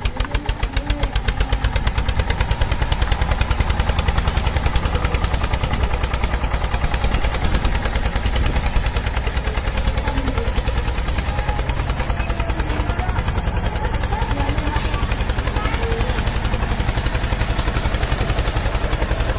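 An engine running steadily with a fast, even pulse, slightly louder after the first couple of seconds.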